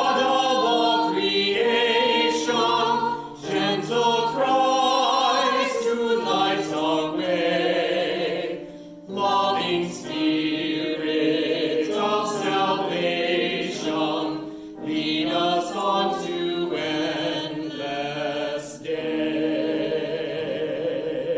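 Choir singing a hymn in long phrases, with short breaks between them.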